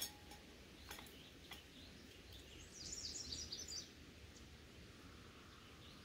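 A songbird gives a short burst of quick, high chirps about three seconds in, over faint steady background noise. A few light clicks sound in the first second and a half.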